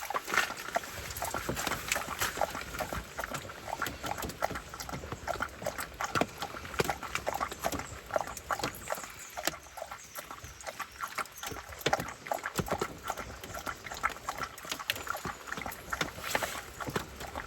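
A Jindo-mix dog eating, with rapid, irregular crunching and smacking of chewing.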